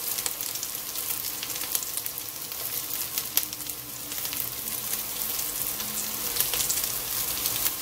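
Tuna patties sizzling steadily in shallow sunflower oil in a frying pan, with scattered sharp clicks and scrapes as a plastic spatula turns them over.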